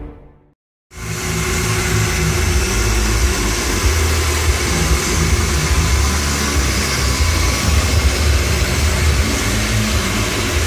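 A milling machine running steadily, a loud even machine hum with hiss that starts about a second in, just after a fading bit of music cuts out.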